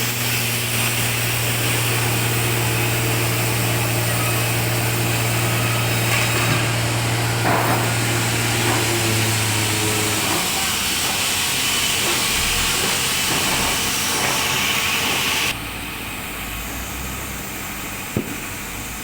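Sawmill machinery running and sawing timber: a steady, loud hiss from the saw cutting wood over the drone of the machine. A low hum stops about halfway through, and the whole sound drops suddenly in level a few seconds before the end.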